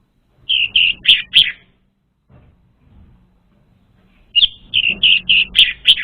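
Orange-headed thrush song played as a lure recording. A quick phrase of about four short high notes comes about half a second in, and a longer run of about seven notes follows from about four and a half seconds.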